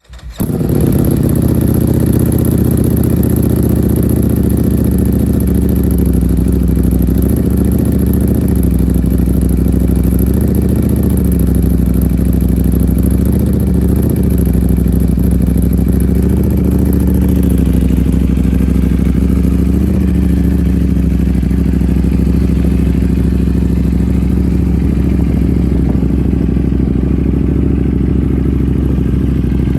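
Ducati Panigale V4 S's V4 engine breathing through an Arrow exhaust, idling steadily while warming up, with a few slight rises and dips in pitch around the middle.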